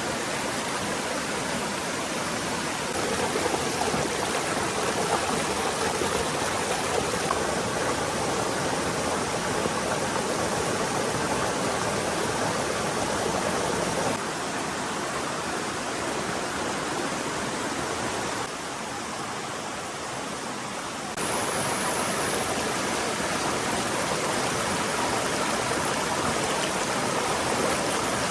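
Forest stream running steadily over rocks, a dense rush of water; its level steps up or down abruptly several times, as between cut shots.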